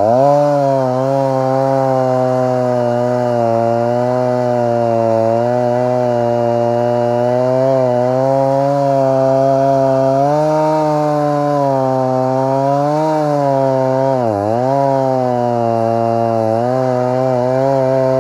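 Stihl MS 290 two-stroke chainsaw with a 20-inch bar and full chisel chain running at full throttle in a cut through a dry trunk. The engine pitch sags under load several times and bogs down hard about 14 seconds in before climbing back.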